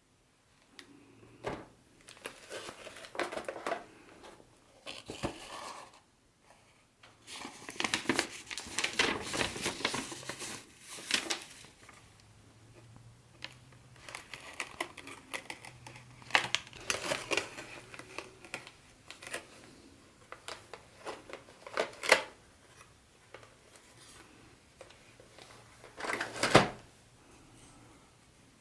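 Packaging of a boxed HO-scale model train set being handled and unpacked: crinkling and rustling with scattered small clicks, and two sharp knocks in the last few seconds.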